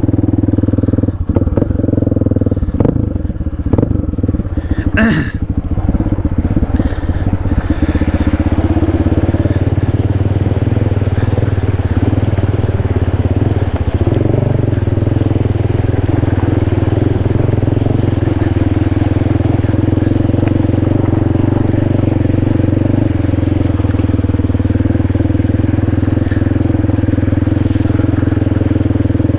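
Dirt bike engine running steadily while riding a trail. There are a few sharp knocks and clicks in the first several seconds, and the engine note settles and stays even from about eight seconds in.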